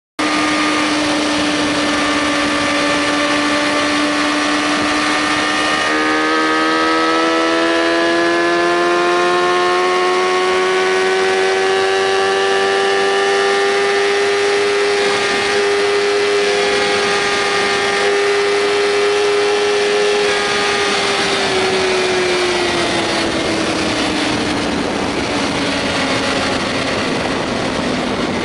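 Motorcycle engine running steadily under wind rush as the bike rides along. The engine note climbs slowly, holds, then falls away over the last several seconds as the rider eases off.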